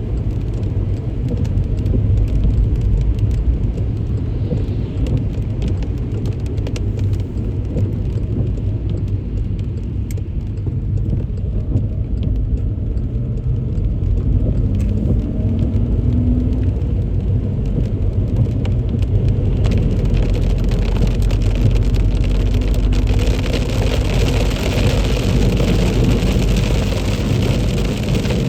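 A car driving on a rain-soaked road: a steady low rumble of engine and tyres on wet tarmac under the hiss and patter of heavy rain on the car. A faint rising tone comes through about halfway, and the wet hiss grows louder near the end.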